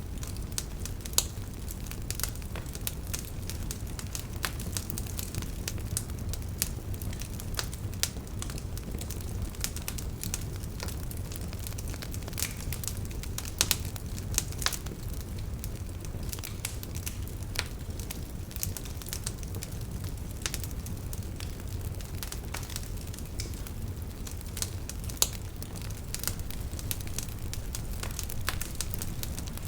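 Campfire crackling: wood burning with a steady low rumble and many irregular sharp pops and snaps, a few of them louder, about a second in, near the middle and near the end.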